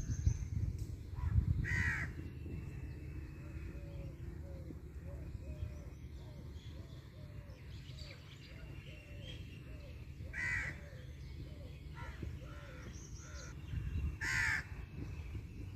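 A bird calling loudly three times: about two seconds in, about ten seconds in and near the end. In between runs a quieter series of short repeated notes, about two a second, over a steady low rumble.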